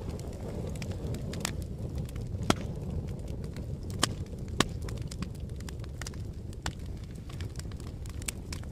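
Fire crackling: irregular sharp pops and snaps over a steady low roar, with a few louder pops around the middle.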